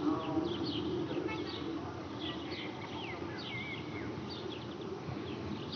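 Small birds chirping: many short, quick, high chirps that sweep downward in pitch, over a steady low hum.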